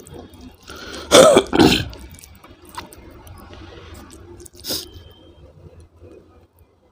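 A man coughs twice in quick succession about a second in, clearing his throat while eating spicy food, followed by soft chewing and mouth sounds.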